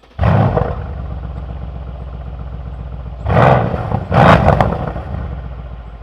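Mercedes-AMG C63 S Coupe's 4.0-litre twin-turbo V8 cold-starting in Emotion Start mode, exhaust valves open: it catches with a loud flare and settles into a raised idle. Two short revs come about three and four seconds in.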